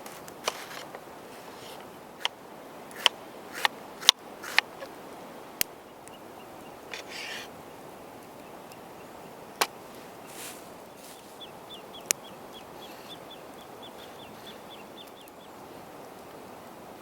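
Scattered sharp clicks and pops, a dozen or so, over outdoor background noise, and a bird's rapid trill of short high notes, about four a second, for a few seconds in the second half.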